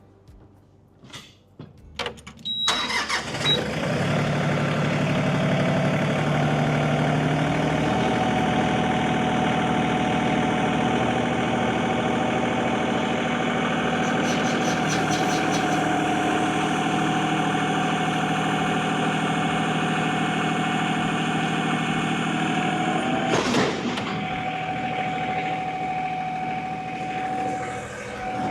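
LS MT226 compact tractor's diesel engine running at raised RPM while its front loader strains at a pallet load over the rated lifting capacity. The sound comes in suddenly after a short quiet, its pitch rises and then holds steady, and there is a brief sharp knock near the end.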